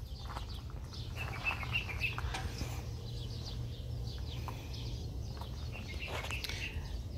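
Scattered small bird chirps over a steady low outdoor rumble.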